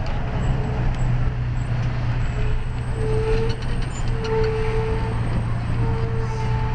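Fire engine running on the road, heard from inside the crew cab: a steady low engine drone with road noise. Several short tones, each holding one pitch, sound from about halfway through.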